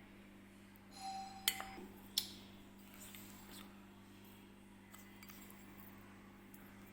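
A few light clinks of a spoon against a bowl about a second in, one leaving a brief ringing tone, then a faint steady hum.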